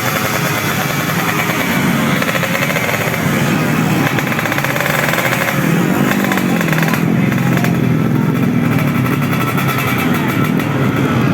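Small 125cc four-stroke underbone race motorcycle engines running hard, their pitch rising and falling with the revs.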